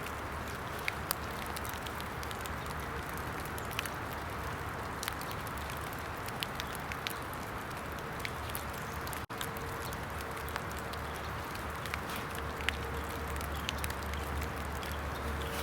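Small fire of carved wet sticks crackling with scattered sharp pops over a steady hiss, in rain.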